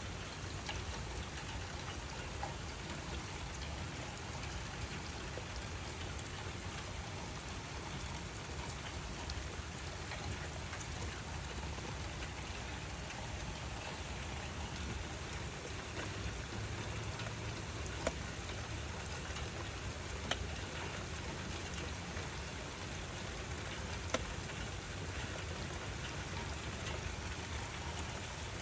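Steady rain falling, with a few louder single drops landing close by now and then.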